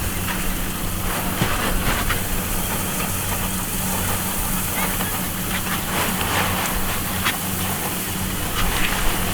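Rice combine harvester running steadily: an even engine hum under a broad rushing noise from the machinery, with scattered short crackles.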